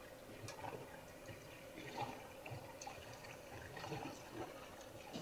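Faint trickling water from a small rocky waterfall, with scattered irregular drips and light ticks.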